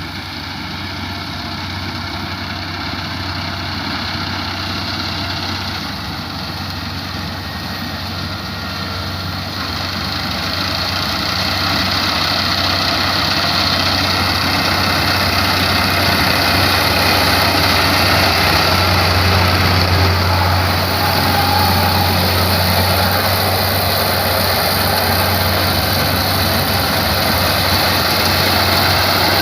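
Rice harvesting machine's engine running steadily, with a dense mechanical clatter. It grows louder over the first dozen seconds, then holds.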